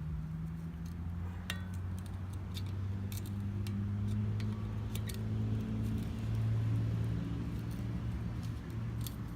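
Scattered small clicks and clinks as an old machete handle scale is worked at to break it off the tang. Under them runs a low steady hum that grows louder in the middle.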